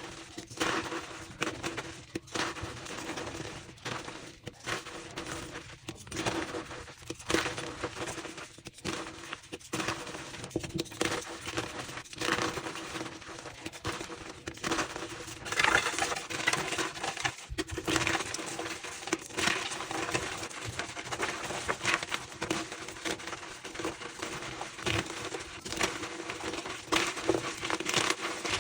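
Reformed gym chalk blocks being crushed and crumbled, a dense irregular run of crunching and crackling, played back sped up.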